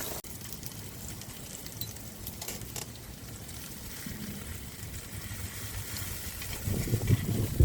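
A steady crackling hiss, with gusts of wind buffeting the microphone in heavy low rumbles near the end.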